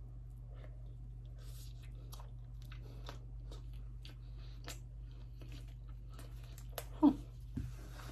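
Close-miked chewing of food, with many small wet mouth clicks. A brief loud mouth sound falls in pitch about seven seconds in.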